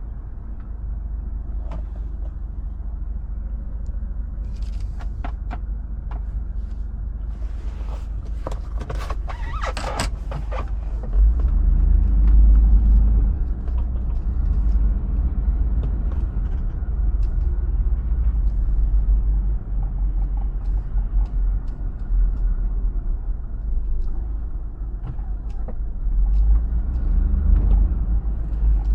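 A 2005 Hummer H2's 6.0-litre V8 runs under a steady deep rumble while driving, growing louder about eleven seconds in as the throttle opens. A brief cluster of clicks and rattles comes just before.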